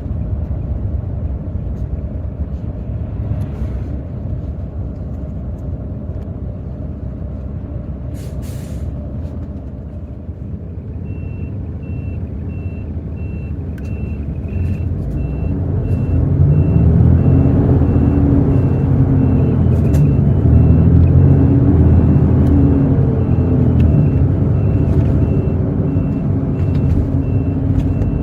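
Hino J08E-VD diesel engine of a Hino RN8JSVU bus running, heard from inside the bus, growing louder and working harder from about fifteen seconds in. A brief hiss comes about eight seconds in, and from about eleven seconds a steady run of evenly spaced electronic beeps sounds.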